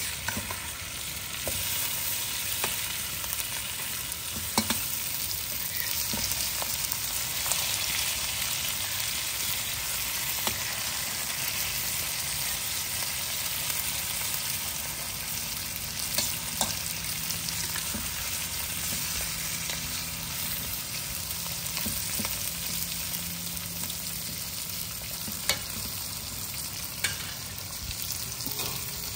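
Prawns sizzling steadily in oil and curry paste in a wok, with a metal spatula now and then scraping and clicking against the pan as they are stirred and turned.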